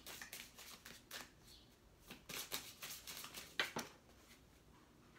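A deck of tarot cards being shuffled by hand: a run of short, soft card strokes, with one sharper snap about three and a half seconds in.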